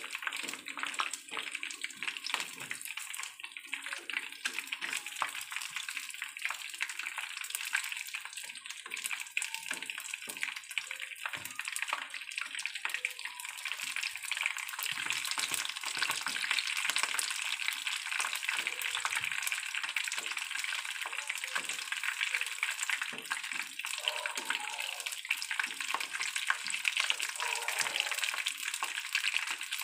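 Batter-coated chicken pieces deep-frying in hot oil in a pan: a steady, dense sizzle with constant fine crackling.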